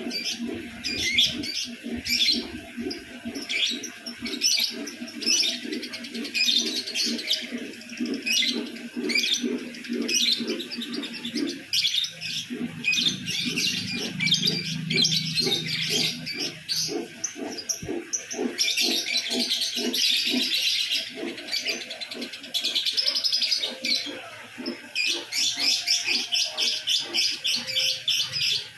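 Lovebird singing a long, unbroken chattering song of rapid, high-pitched chirps. The chirps speed up near the end.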